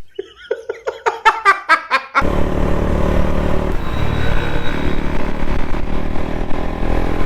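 A quick run of pitched pulses with the bass cut away, like a short inserted sound clip. About two seconds in it gives way to a motorcycle running steadily on the road, its rumble mixed with wind noise.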